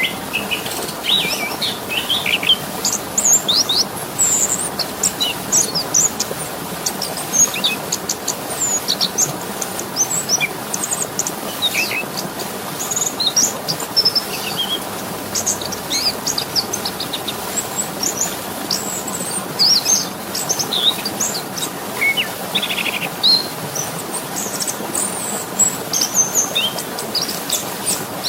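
Small songbirds chirping and trilling in quick, scattered short notes throughout, over a steady rushing water sound.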